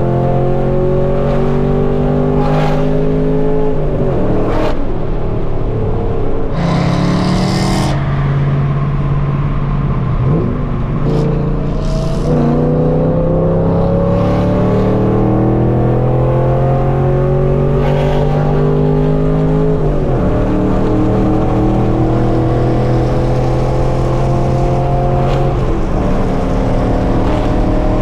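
Straight-piped Chevrolet Camaro SS V8 exhaust pulling hard under acceleration, its pitch climbing through each gear and dropping back at the upshifts, about five times. A short rush of hiss comes about seven seconds in.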